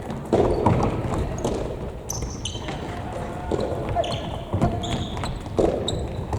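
Indoor futsal play in a sports hall: the ball thudding off feet and the floor, short high squeaks of court shoes on the floor, and players' shouts, the loudest about half a second in.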